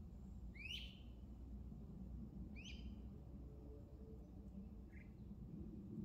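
A wild bird calling faintly: two short, upward-sweeping chirps about two seconds apart, then a fainter, shorter call, over a low steady rumble.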